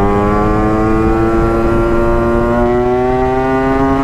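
Two-stroke single-cylinder engine of a Yamaha RX-King motorcycle pulling under steady throttle, its pitch rising slowly and evenly as the bike gains speed in one gear.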